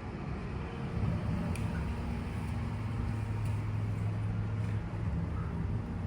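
Steady low machine hum, louder from about a second in until near the end, with a few faint ticks over it.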